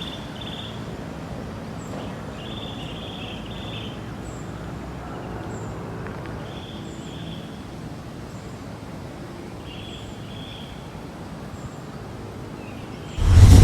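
Outdoor ambience: a steady background hiss with short chirping calls, most likely birds, repeating every second or two, and faint high ticks at a regular pace. A loud burst of sound comes in near the end.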